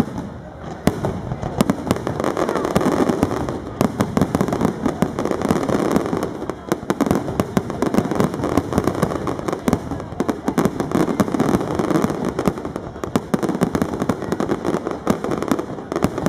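Aerial fireworks display: a dense, continuous barrage of many bangs and crackles from shells bursting together, building up about a second in and keeping on without a pause.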